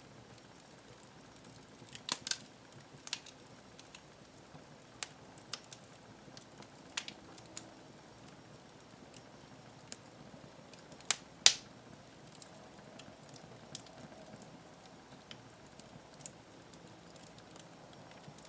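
Wood fire crackling in a fireplace: irregular sharp pops and snaps over a faint steady hiss, the loudest pop about eleven seconds in.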